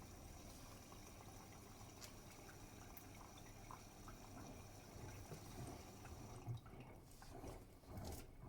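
Faint sloshing of water and laundry in the drum of a Bosch Serie 8 front-loading washing machine during the wash, with a couple of soft bumps near the end.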